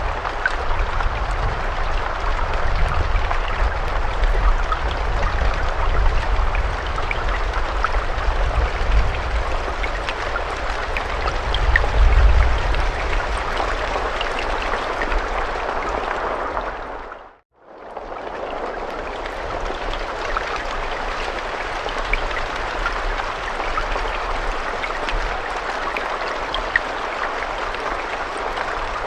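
Steady rain with scattered distinct drop ticks and a low rumble under the first half. About seventeen seconds in it fades briefly to silence and straight back in.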